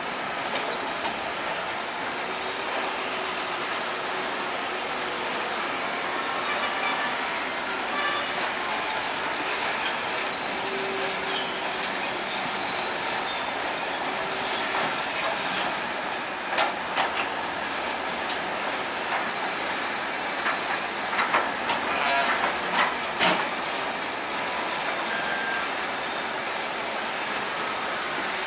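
Bulldozer working, its engine running under a steady clatter and squeal of steel crawler tracks, with a run of sharp metallic clanks a little past halfway.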